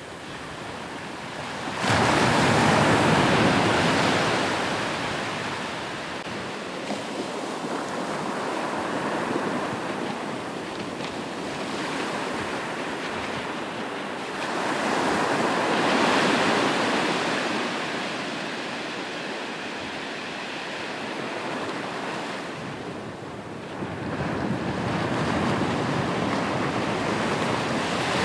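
Ocean waves breaking on a shore, the surf swelling and ebbing, with three big surges: about two seconds in, around the middle, and near the end.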